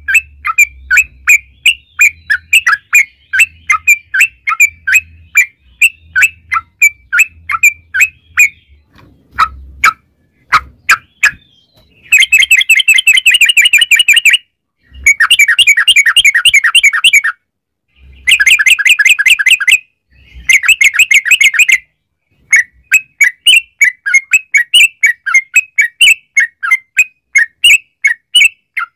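Yellow-vented bulbul (trucukan) singing: a quick run of short, falling chirpy notes. Between about 12 and 22 seconds in come four long, fast rolling trills, the "ropel panjang" roll used as a lure to make other bulbuls call back.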